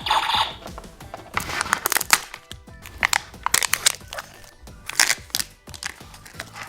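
Crinkling and crackling of a Kinder Joy egg's plastic capsule and toy wrapper being handled and opened, in a string of short, sharp clicks, over background music.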